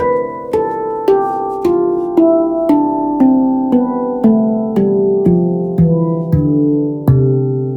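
Panersia C Ashakiran 17-note mutant handpan played by hand, single ringing steel notes struck about two a second in a steady descending run down the C major scale, ending on a deep, louder low note near the end.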